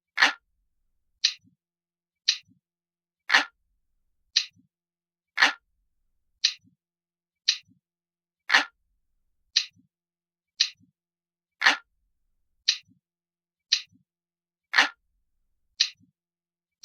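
Ticking clock sound, about one sharp tick a second, with every few ticks a heavier, fuller one.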